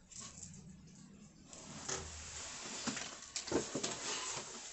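Handling noise: a rustling hiss broken by a few light knocks and clicks, several of them close together about three seconds in.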